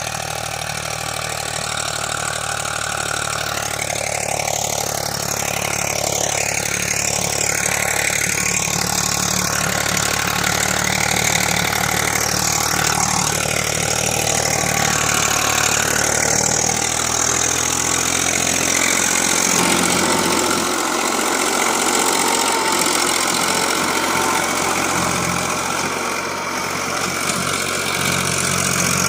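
Eicher tractor's diesel engine running steadily; its deep low note weakens about two-thirds of the way through.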